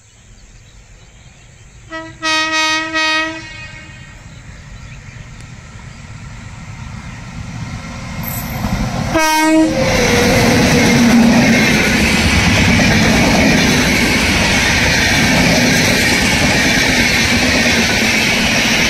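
Indian Railways locomotive horn sounding a couple of short blasts about two seconds in, with rumble building as the train approaches, and another short blast just before the train reaches the microphone. From about ten seconds the train passes close by, a loud steady rush of wheel and rail noise.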